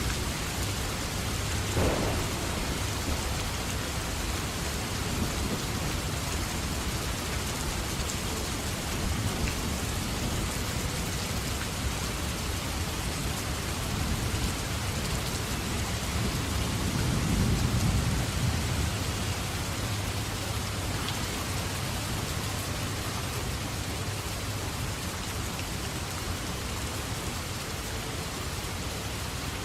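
Steady heavy rain falling, with a sharp crack of thunder about two seconds in. A deep rolling rumble of thunder swells past the middle and is the loudest moment.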